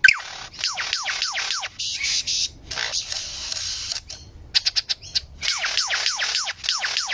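A bird calling in a fast run of down-sweeping whistles, about three or four a second. The whistles break off near the middle for a short hissy stretch and a few quick clicks, then start again.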